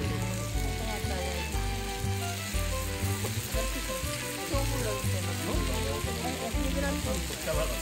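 Meat frying with a steady sizzle, fat spattering a lot, over background music with a repeating bass line.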